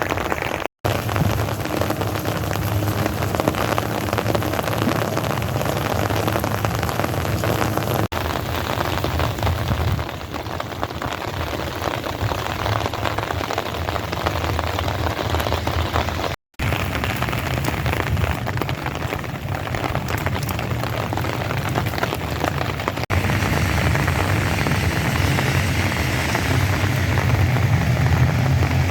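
Steady light rain falling, an even patter of drops over a low rumble.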